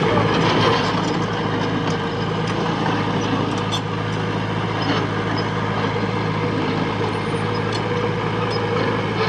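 Heavy machine's diesel engine running steadily at a constant speed, with a few faint clicks.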